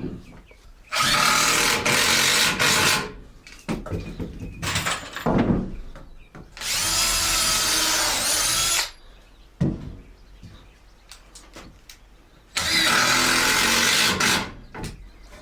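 Power drill boring holes through wood: three runs of about two seconds each, the motor whine shifting in pitch as the bit cuts, with small knocks between the runs.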